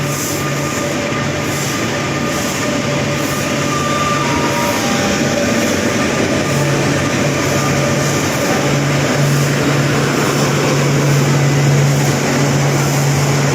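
Indian Railways WAP-4 electric locomotive and its express train running, a loud steady rolling noise with a low hum that fades about a second in and comes back strongly about six and a half seconds in.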